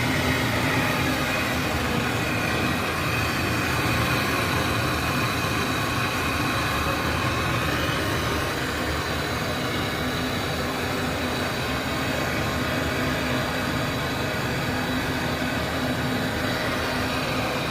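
Brazing torch flame burning steadily on copper AC pipe, a continuous hiss and rush with a few faint steady tones underneath.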